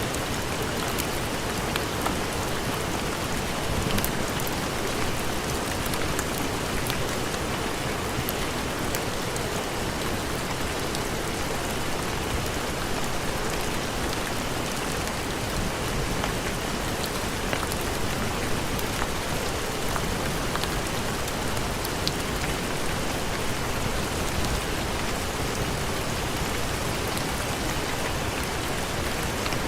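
Steady heavy rain falling, an even wash of noise with scattered small ticks and pops through it.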